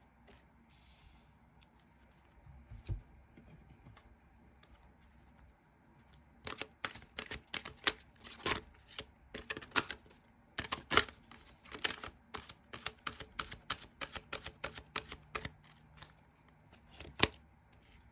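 Tarot cards being shuffled and laid down on a table: a run of quick, sharp card slaps and clicks, several a second, that starts about a third of the way in and stops shortly before the end, with one last click near the end.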